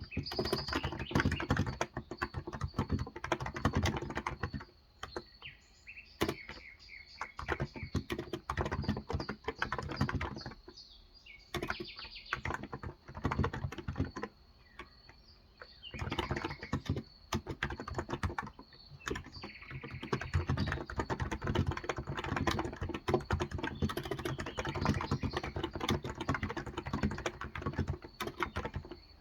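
Typing on a Cox Endeavor electrostatic capacitive (contactless) tenkeyless keyboard with 35 g switches: fast runs of key presses broken by short pauses.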